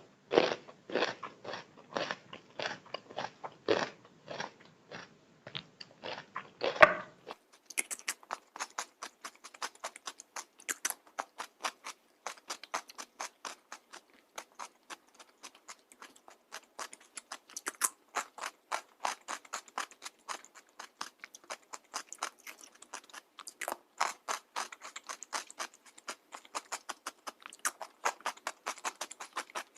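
A person chewing and biting food, a quick run of crunchy, wet clicks. About seven seconds in, the sound turns thinner and brighter.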